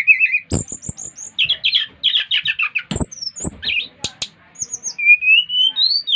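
SRDC (sikatan rimba dada coklat) jungle flycatchers singing in a lively run of rapid chirps, trills and high whistled notes, ending in a rising whistle, with a few sharp knocks mixed in.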